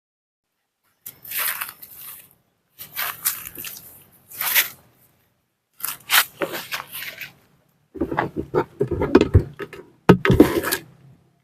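Dry leaves and grass rustling and crunching in about five short bursts as they are pushed aside by hand, with heavier bumps in the last two.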